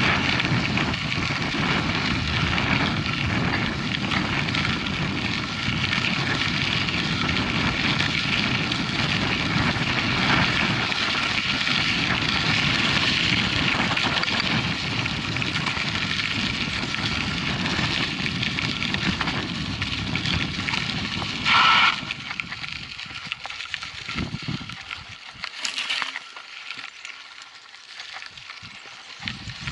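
Wind buffeting the microphone and tyres running over a dirt trail during a mountain bike ride, a steady loud rumble. About 22 seconds in there is a short loud squeal, then the rumble falls away to quieter, scattered crunches and clicks.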